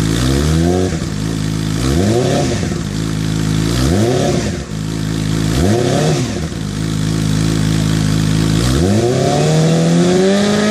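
Yamaha R6's 600cc inline-four, fresh from a cold start, idling through an M4 Street Slayer shorty slip-on exhaust with the baffle in and MJS stainless headers. The throttle is blipped in four quick revs about two seconds apart, each rising and dropping back to idle, then near the end a longer rev climbs steadily higher.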